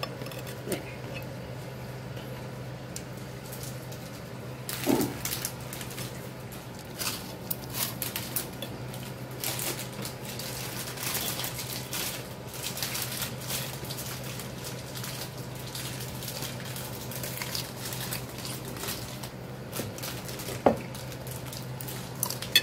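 Close-up eating of a salad with toast: crisp crunching and wet chewing, with a fork tapping and scraping on a ceramic plate, one sharp clink near the end. A steady low hum lies underneath.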